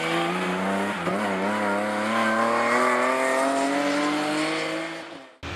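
BMW M3 rally car engine at full throttle: a quick gear change about a second in, then the revs climb steadily for several seconds. Near the end the sound fades and cuts off abruptly.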